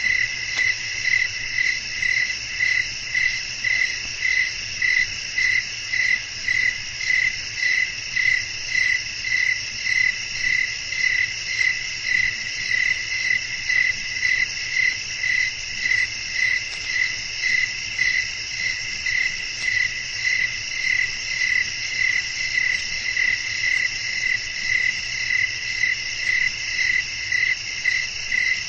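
A chorus of crickets chirping steadily in a night ambience, pulsing in a regular rhythm of about one and a half swells a second.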